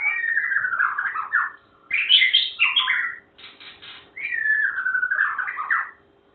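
A bird singing loud phrases. A whistled phrase glides down from high to lower pitch, a rapid jumble of notes follows about two seconds in, then a short burst, and the gliding phrase comes again near the end.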